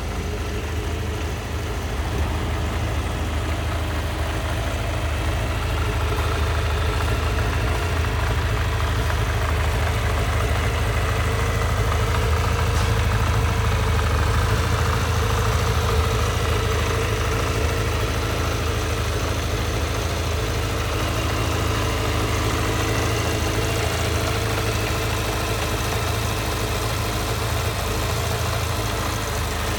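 Kawasaki Zephyr 750's air-cooled inline-four idling steadily. It is a high-mileage engine, past 100,000 km, that the dealer describes as running in good condition.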